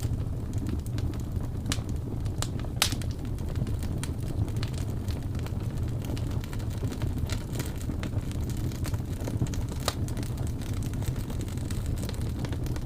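Wood fire crackling, with irregular sharp pops (the loudest about three seconds in) over a steady low rumble of blizzard wind.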